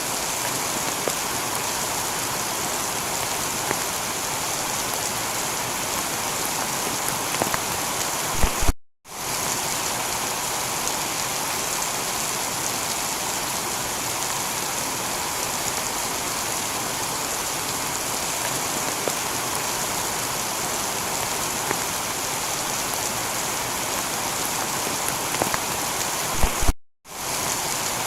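Heavy rain falling steadily on a tiled roof, a dense even patter with scattered individual drop ticks. The sound cuts out completely for a moment twice, about nine seconds in and near the end, each time just after a brief louder flurry of drops.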